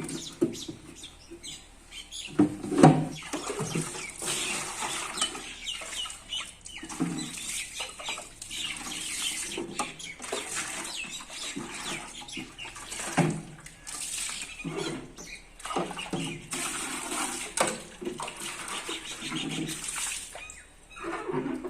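Water splashing and running as fridge trays and shelves are washed by hand, with birds chirping throughout.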